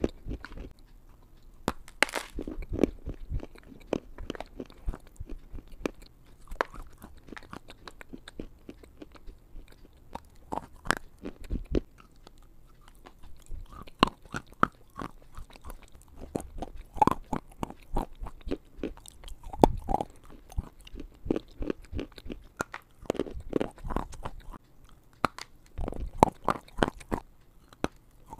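Biting and chewing of lumps of edible clay with a lapel microphone held right at the mouth: sharp crunches at irregular intervals in clusters, with quieter chewing in between.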